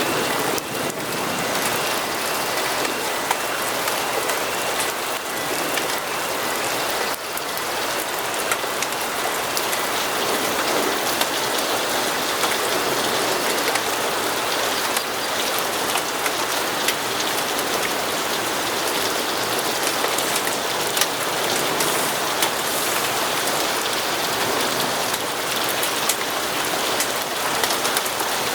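Steady rainfall, an even hiss with many scattered sharp drop taps.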